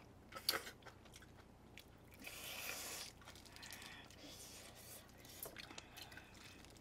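Faint chewing and mouth sounds of someone eating chicken feet by hand, with a soft click about half a second in and a brief hiss of noise around two to three seconds.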